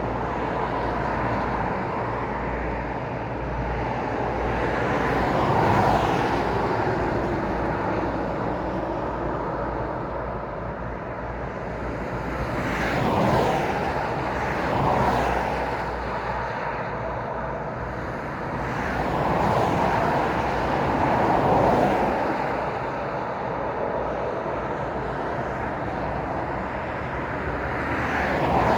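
Road traffic: cars passing one after another over a steady hum of tyre and engine noise, each swelling and fading as it goes by, about six passes.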